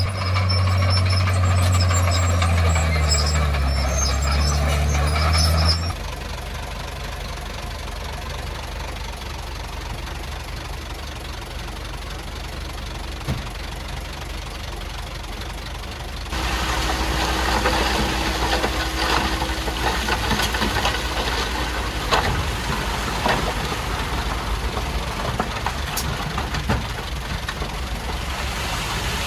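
Diesel engine of heavy earthmoving machinery running with a low steady note, loud for about the first six seconds, then suddenly quieter. About sixteen seconds in it gets louder again, with scattered metallic clanks.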